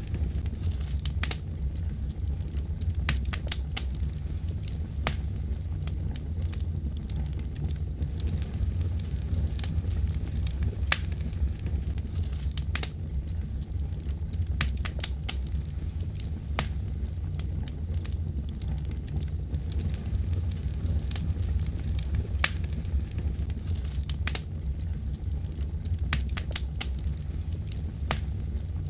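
Fire crackling: a steady low rumble with sharp, irregularly spaced pops and snaps throughout.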